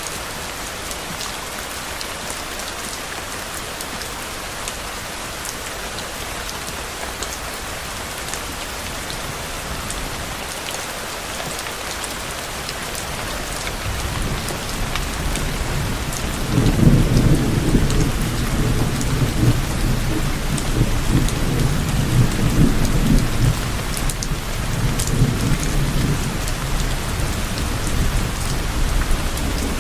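Steady heavy rain falling, with the patter of individual drops. About halfway through, a long low roll of thunder builds, rumbles for around ten seconds and fades back into the rain.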